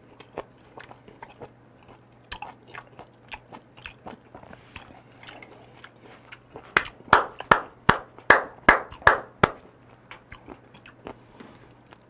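A mouthful of chopped raw octopus mixed with raw beef being chewed. It is a run of small mouth clicks, with a burst of louder chews from about seven to nine and a half seconds in.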